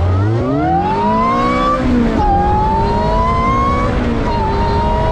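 Ariel Atom 3.5's supercharged Honda K20 2-litre four-cylinder engine accelerating hard, its note climbing in pitch and dropping sharply at two upshifts, about two seconds in and again near the end.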